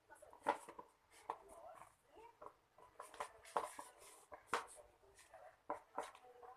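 Slime being stirred in a container with a stirrer: irregular sticky clicks and short scraping strokes, a few a second.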